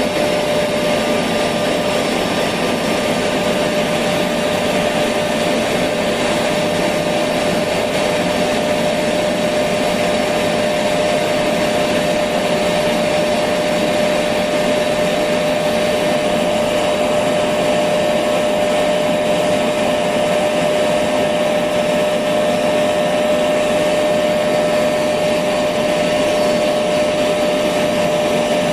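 Electric vacuum cleaner running steadily, its motor giving a constant whine over even rushing air noise, with no change in speed.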